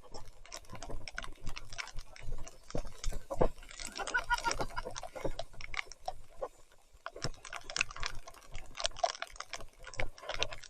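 Irregular ticks, clicks and knocks from a mountain bike being ridden over a wet, muddy trail.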